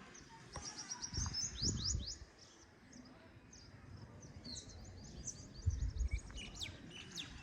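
Small birds chirping: a quick run of short high notes, then several fast downward-sweeping calls, and scattered chirps through the rest. Low muffled thuds come about a second in and again near six seconds.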